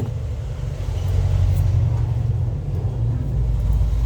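A steady low rumble, like nearby road traffic or running machinery.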